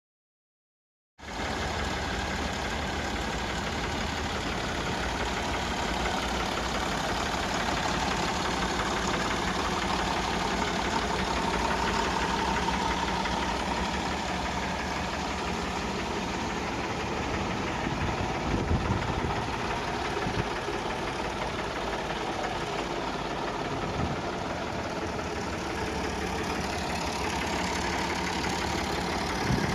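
Massive 360 tractor's 4.1-litre diesel engine idling steadily. The sound cuts in abruptly about a second in.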